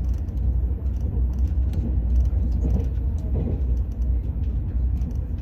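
Steady low rumble of a vehicle in motion, with scattered light clicks and rattles over it.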